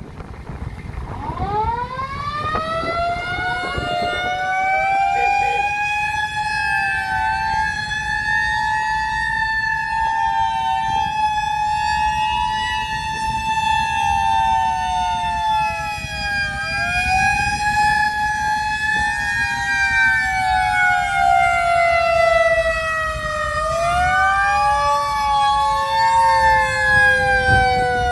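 Siren winding up from low pitch about a second and a half in, then wailing with its pitch wavering slowly up and down, and falling steadily in pitch near the end.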